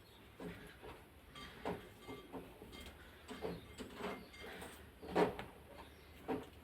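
Irregular light clicks and knocks from forpus parrotlets moving and pecking about.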